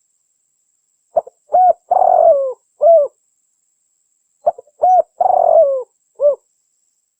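Spotted dove cooing: two phrases about three seconds apart, each a few short coos around one longer coo that falls in pitch at the end.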